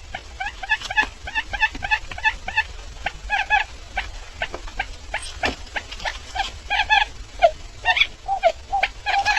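Barred buttonquail calling: a rapid, irregular run of short notes, several a second.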